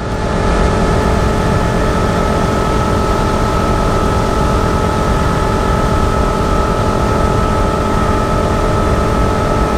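Motorboat running at a steady cruising speed: a constant engine whine over a loud rush of wind and water.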